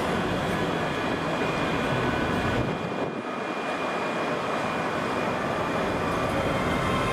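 Scotrail class 385 electric multiple unit arriving into the platform, a steady rolling rumble with a thin high whine over it.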